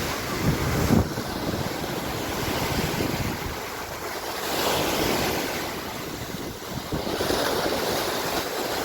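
Sea surf: waves breaking and washing onto the shore, swelling and ebbing every few seconds, with wind rumbling on the microphone.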